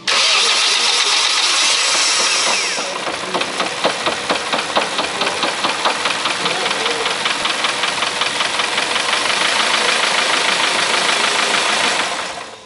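Honda CR-V 2.0 petrol engine starting hot, then running with a fast, regular knock from deep in the bottom end. The knock comes from the crankshaft and is typical of a worn main bearing on the third journal. It lasts only until oil pressure builds up.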